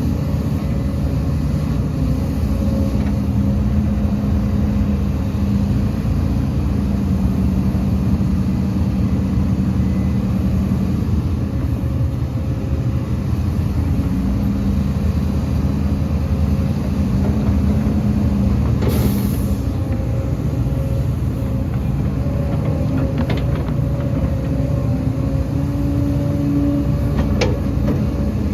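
Heavy diesel earthmoving machinery running steadily, its engine note shifting slightly up and down with load. A brief hiss about two-thirds of the way through.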